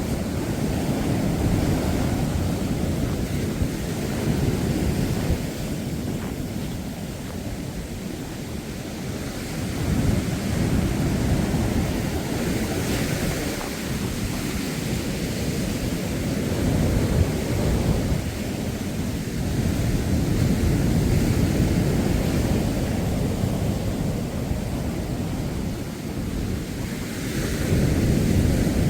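Waves breaking on a sandy beach, with wind rumbling on the microphone. The surf swells and eases every few seconds.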